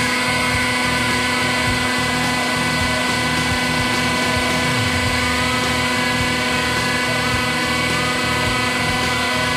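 A 100-ton hydraulic press's pump running with a steady hum and whine while the ram slowly descends.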